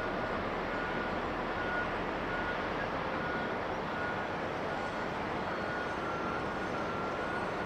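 Steady aircraft engine noise, with a vehicle's reversing beeper sounding a short high beep about every 0.7 seconds.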